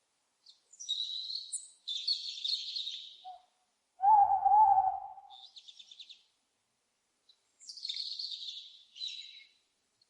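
Owls screeching and hooting: several high, harsh screeches in separate bouts, and about four seconds in a single lower, wavering hoot that is the loudest call.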